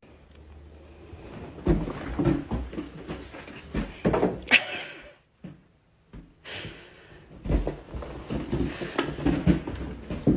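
Irregular knocks and thumps in a small room, with a short higher-pitched sound about four and a half seconds in.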